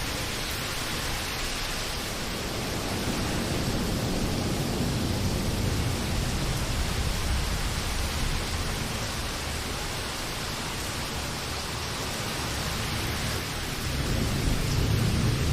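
Steady rain falling in a continuous hiss, with low rolling thunder that swells a few seconds in and builds again near the end.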